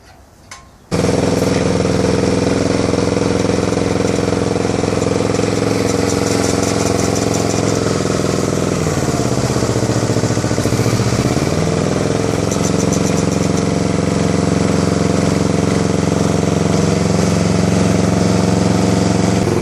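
Spider crane's engine running loudly and steadily, cutting in abruptly about a second in. Around the middle its pitch sags and then climbs back, as the engine takes up hydraulic load.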